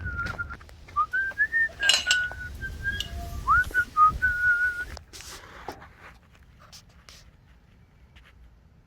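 A person whistling a short run of held notes with small slides between them, stopping about four and a half seconds in. About two seconds in there is a brief clatter.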